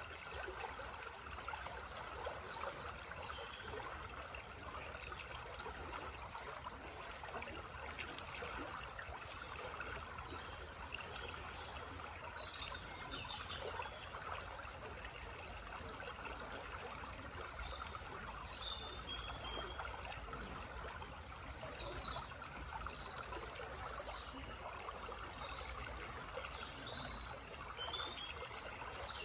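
Small forest stream trickling and babbling steadily, with a few short bird chirps in the second half.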